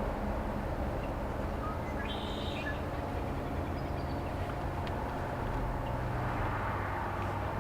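Excavator engine working down the road, a steady low drone that drops in pitch about six and a half seconds in. Small birds chirp over it around two seconds in and again near the end.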